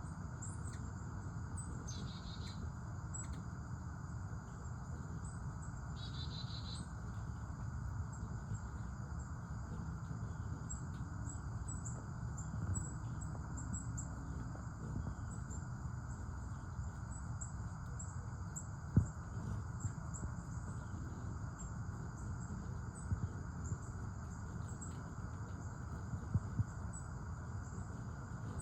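A steady chorus of insects chirping, a high, even trill of rapid chirps, over a low background rumble. A single sharp click comes about two-thirds of the way in.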